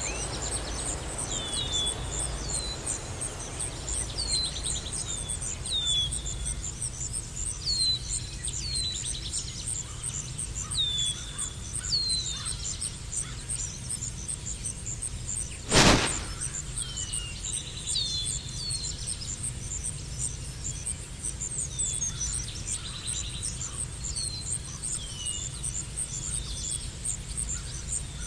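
Bird calls: short downward-slurred chirps repeated every second or two over a steady, high, pulsing trill. A single sharp click about halfway through is the loudest moment.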